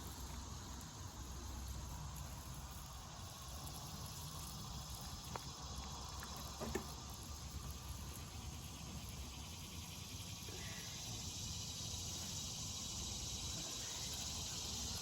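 A steady, high insect chorus of late-summer crickets over a low background rumble, with two faint clicks about five and seven seconds in.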